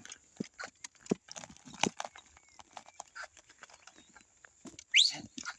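An ox-drawn plough at work: scattered knocks and clinks from the team and the plough as the cattle pull through hard ground. A short rising whistle sounds about five seconds in.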